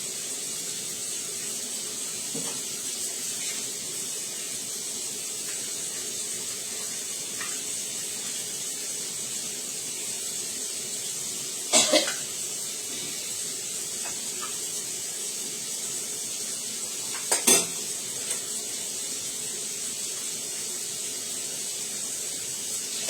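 Steady background hiss, with two brief sharp clinks of hard objects, about halfway through and again some five seconds later.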